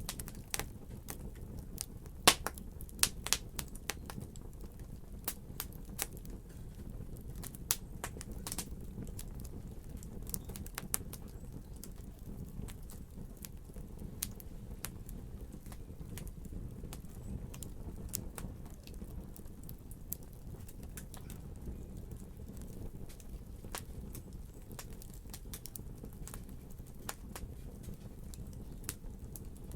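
Wood fire burning in a fireplace, crackling and popping over a low steady rumble of flame; the pops come thick and fast for the first several seconds, then thin out to occasional snaps.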